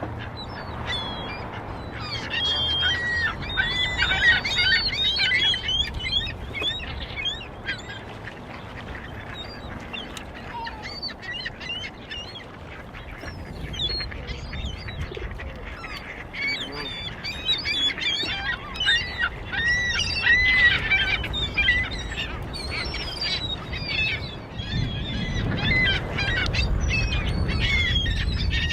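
A flock of waterbirds calling excitedly while being fed, many short high calls overlapping in two busy bursts.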